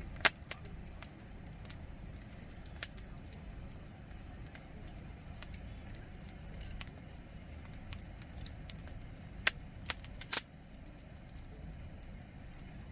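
Wood campfire crackling over a steady low rumble, with faint ticks throughout and a few sharp, loud pops, one near the start and three close together about ten seconds in.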